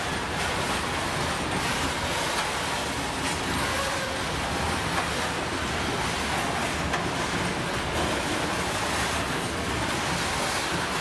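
Freight train of open gondola wagons rolling past, a steady rumble of wheels on rails.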